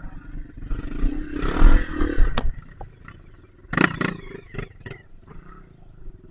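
Dirt bike engine running with a brief louder surge of revving, muffled, then about four seconds in a quick run of five sharp knocks.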